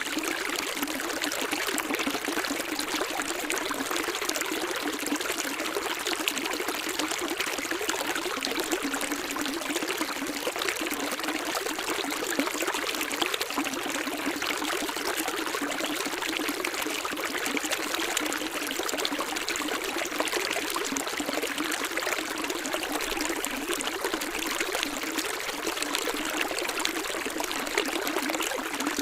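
Running water flowing and splashing steadily, a dense even rush with little low rumble.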